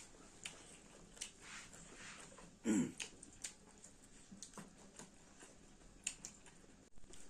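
Close-up mukbang eating sounds: chewing, lip smacks and small mouth clicks from eating chicken and onion. About two and a half seconds in comes one short, louder sound that drops in pitch.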